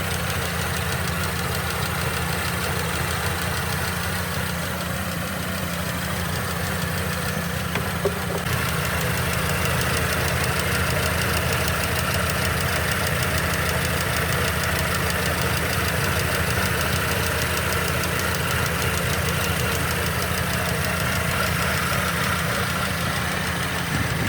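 Mercedes-Benz M271 1.8 supercharged four-cylinder engine idling with a fast, even ticking rattle: the fault the owner is showing. A brief click about eight seconds in, after which the running gets slightly louder.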